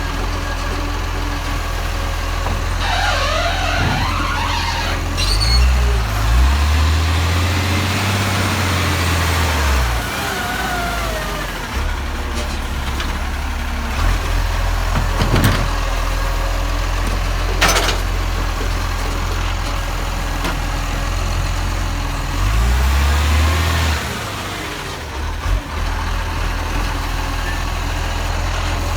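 Garbage truck's diesel engine running steadily, revving up twice, about six and twenty-three seconds in. A brief squealing whine comes near the start, and a couple of sharp clicks come in the middle.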